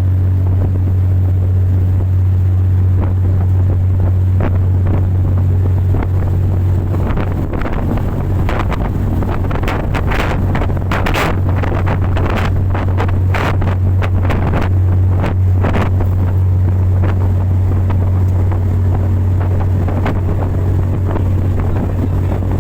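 Motorboat engine running steadily at speed, a constant low drone, with wind buffeting the microphone and a run of short rushing bursts of water and wind noise in the middle.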